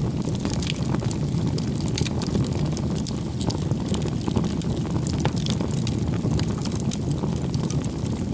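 Wood campfire burning: a steady low rush of flames with frequent sharp crackles and pops from the burning wood.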